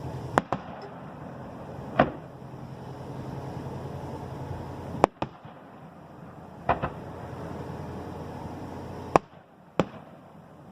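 Aerial fireworks going off in a display: about eight sharp bangs at irregular intervals, several coming in quick pairs.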